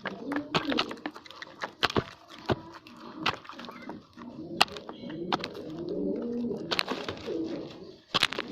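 Pigeons cooing in repeated low, rolling coos, with frequent sharp clicks and taps among them.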